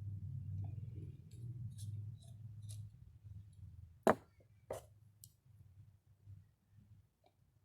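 Small metal distributor parts being handled: light clicks and ticks, then two sharper knocks a little over half a second apart, about four seconds in.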